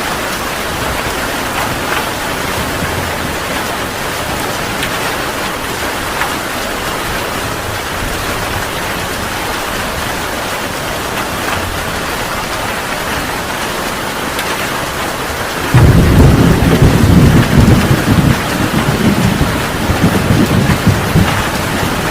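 Heavy rain falling steadily, then about three quarters of the way through a sudden loud thunderclap that rolls on as rumbling thunder.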